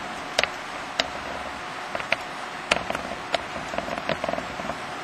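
Model trains running on a layout: a steady hum with a faint tone, broken by irregular sharp clicks.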